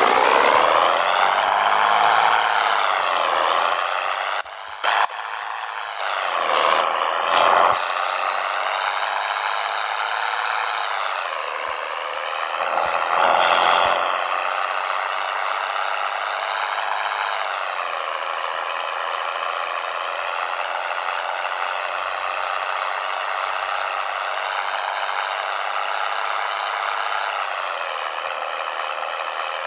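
Scania 113 truck's six-cylinder diesel engine running under load. Its pitch rises and drops several times over the first dozen seconds, as with gear changes, then holds fairly steady.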